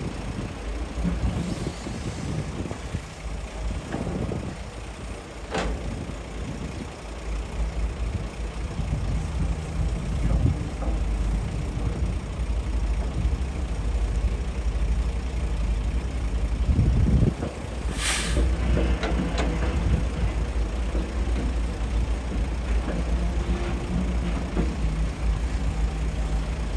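Heavy diesel engines of an excavator and dump truck running steadily with a low rumble, with one brief sharp hiss about two-thirds of the way through.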